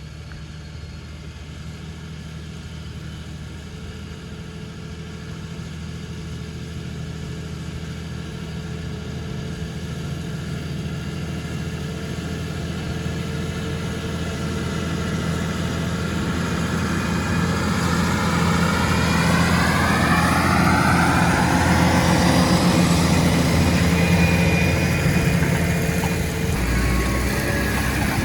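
Fendt tractor engine running steadily while ploughing, growing louder for about twenty seconds as the tractor comes closer. As it passes close by, a whine drops in pitch.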